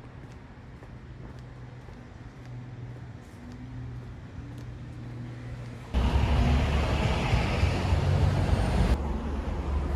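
Steady low rumble of motor vehicle traffic, getting abruptly louder about six seconds in and easing back a little near the end.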